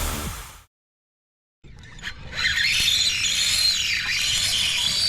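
Electronic music fades out, and after a second of silence a fishing reel's drag screams steadily with a wavering high whine as a hooked fish strips line.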